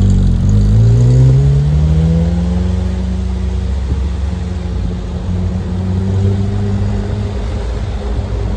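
Car engine accelerating, its pitch rising over the first couple of seconds, then running steadily at a constant speed.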